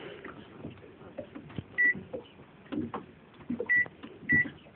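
Microwave oven beeping three times, short high beeps of one pitch as its keypad is pressed, with soft clicks and knocks in between.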